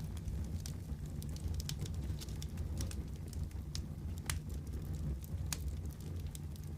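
Wood fire crackling in a fireplace: scattered sharp, irregular pops and snaps over a steady low rumble.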